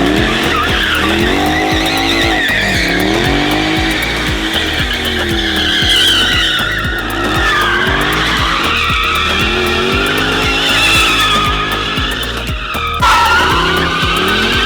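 A car doing donuts: the engine revs up and down over and over as the tires squeal continuously on the pavement.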